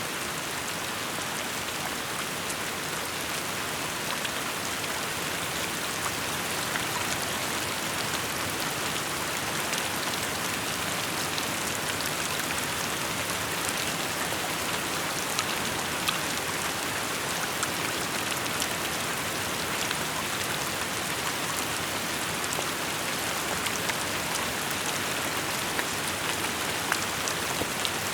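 Steady rain falling, a dense even hiss with scattered sharper drop ticks on hard surfaces.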